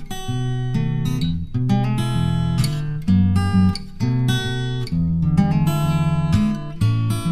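Background music: acoustic guitar playing plucked and strummed chords, with the chords changing every half second or so.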